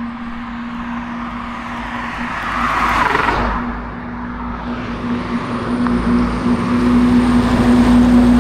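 Road traffic: a vehicle passes about three seconds in, its rushing noise swelling and fading over a steady low engine hum. The noise builds again toward the end as more traffic approaches.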